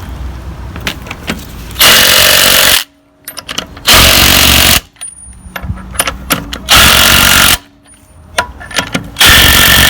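Impact wrench with a 21mm socket running the wheel nuts on, in four rattling bursts of about a second each, with clatter between them.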